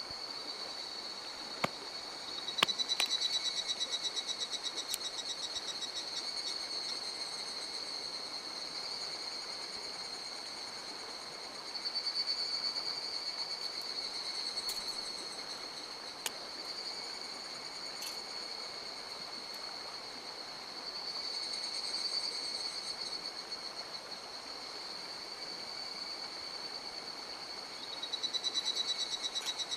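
A high-pitched, rapidly pulsing trill chorus of calling animals, swelling louder and fading again every several seconds, over a faint even hiss of stream water. A few sharp clicks sound, two of them close together early on.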